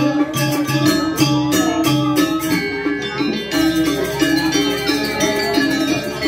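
Balinese gamelan playing: pitched bronze percussion repeating a short stepping melody over a steady, fast beat of sharp metallic strokes.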